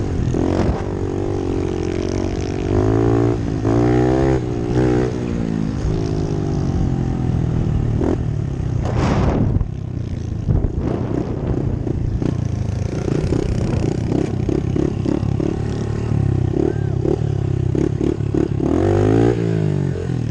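Pit bike engines revving on the track, their pitch rising and falling as the throttle is opened and closed.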